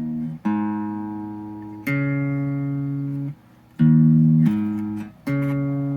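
Electric guitar with its bridge humbucker and neck single-coil combined, played clean through a blackface Fender Champ with a 12-inch alnico speaker. About five chords are struck one after another, each ringing and fading before the next, with a short pause in the middle.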